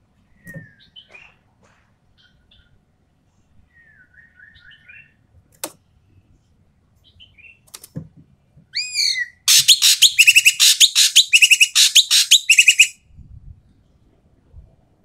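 Ekek keling bird calling loud and harsh: scattered soft chirps at first, then, about nine seconds in, a burst of rapid chattering notes lasting about four seconds.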